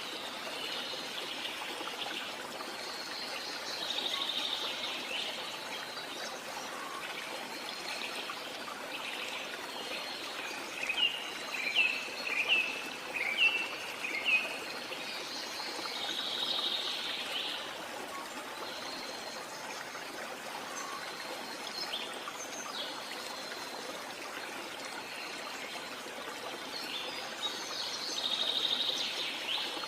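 Jungle waterfall ambience: a steady rush of running water with birds calling over it. There is a quick run of short chirps near the middle, and bursts of higher warbling song a few times.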